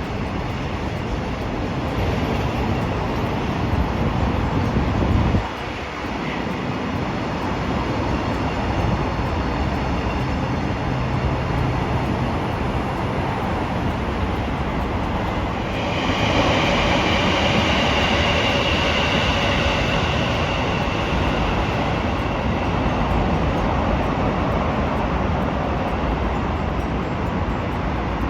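Train running by on the rails with a steady rumble. About halfway through it grows louder and brighter, with a steady high-pitched whine that fades over several seconds.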